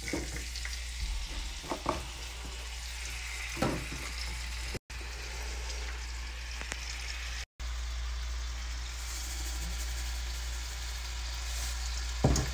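Sliced bell peppers and onion sizzling as they fry in a pan, a steady hiss with a few short knocks as pieces land and shift. The sound cuts out twice very briefly.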